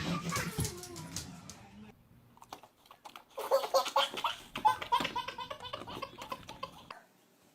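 A baby laughing in quick repeated bursts from about three and a half seconds in until shortly before the end, with small sharp clicks among the laughs.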